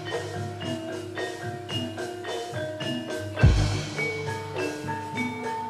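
Javanese gamelan music: metallophones playing a steady run of struck notes, with one deep low stroke about three and a half seconds in.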